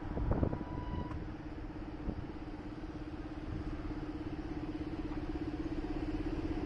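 Motorcycle engine idling with a steady, rapidly pulsing low hum. A couple of short knocks come in the first two seconds.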